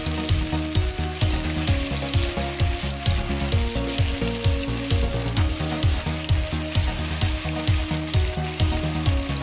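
Battered chicken pieces deep-frying in hot oil in a wok, with steady sizzling and crackling. Background music with a steady electronic beat plays over it.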